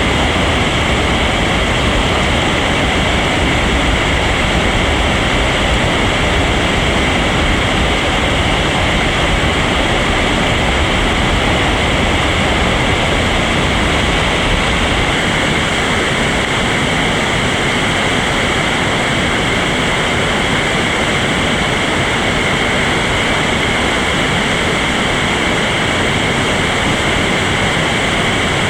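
Steady rushing of whitewater on a high-running river rapid. A low rumble under the rush drops away about halfway through.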